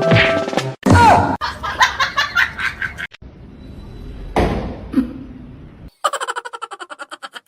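People laughing in a series of short clips, mixed with snatches of music. There is a sudden thud about four and a half seconds in, and a rapid run of laughter near the end.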